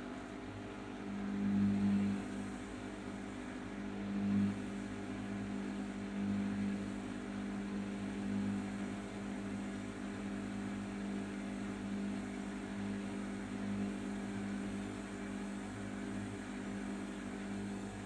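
Arçelik 5083 washing machine's drum motor running with a steady hum. It swells twice in the first few seconds, then rises and falls gently and evenly.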